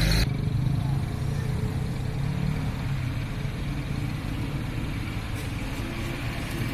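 Heavy truck's engine running at low revs, a steady low rumble; a louder rushing hiss cuts off suddenly just after the start.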